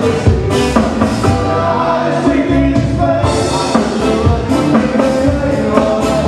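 Live band music with a drum kit keeping a steady beat under sustained pitched instrument lines.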